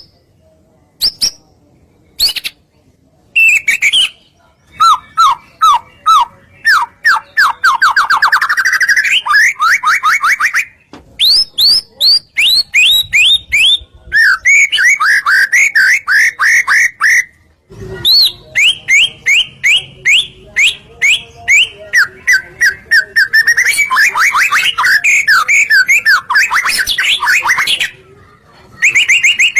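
White-rumped shama (murai batu) singing loudly and continuously: a varied song of rapid trills of repeated whistled notes, some rising and some falling, with a couple of brief pauses.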